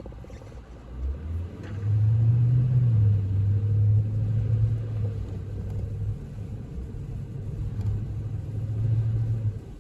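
Car driving on a snowy road, heard from inside the cabin: a loud low rumble that comes in about a second in, holds, and cuts off suddenly near the end.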